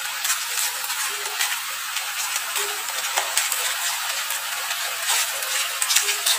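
Instant fried noodles sizzling in a frying pan, a steady hiss with scattered sharp clicks and taps throughout.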